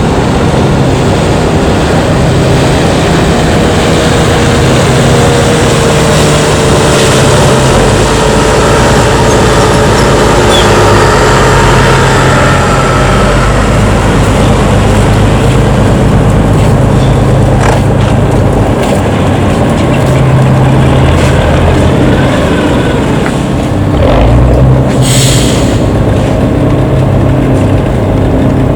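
Jet engines of an arriving JetBlue Airbus A321 running loud and steady, with whining tones that slide down in pitch from about a quarter to halfway through. A short hiss comes near the end.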